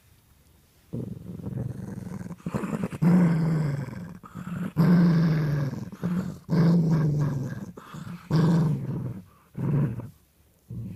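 Dog growling in a run of low growls, each a second or two long, starting about a second in: guarding its stuffed toy from someone trying to take it.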